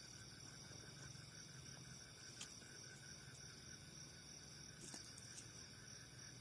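Near silence: faint, steady night insect chirring, crickets pulsing evenly, with a couple of faint clicks in the middle.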